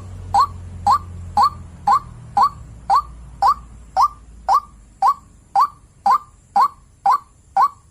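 White-breasted waterhen (ruak-ruak) call: one short note repeated monotonously, about two per second, each note bending quickly in pitch. It is the kind of call used as a lure to draw waterhens in.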